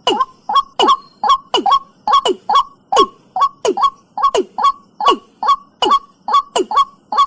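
Watercock calling over and over, a steady series of short hollow notes about three a second, each dropping in pitch.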